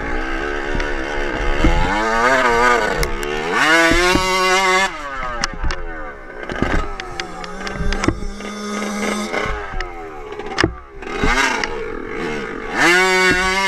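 Dirt bike engine revving up and easing off again and again, with its pitch climbing hard twice and a short steadier stretch in between, mixed with sharp knocks and clatter.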